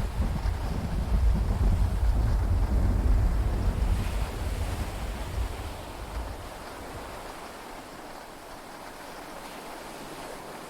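Deep rumble of thunder rolling and dying away about six seconds in, leaving a steady hiss of heavy rain and sea, heard inside a yacht cabin.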